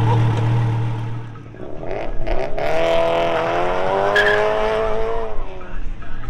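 A car engine running steadily, then cutting out about a second in. Then a car accelerates hard, its engine note climbing for about two seconds, levelling off and fading out near the end.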